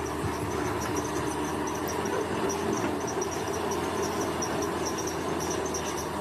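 Heavy diesel engine of earthmoving machinery running steadily at an even pitch. Insects chirp in rapid high pulses over it.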